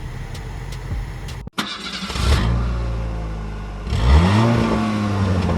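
Car engine, the BMW X5 E53 4.8iS's V8, running after an abrupt break, then revved once about four seconds in: the pitch rises quickly and holds at a higher note.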